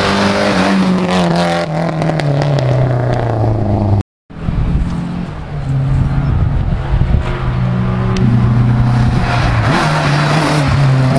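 Historic rally cars' engines as the cars drive past one at a time. In the first car's engine note the pitch falls steadily. After a brief dropout about four seconds in, another car's engine comes up, growing louder near the end.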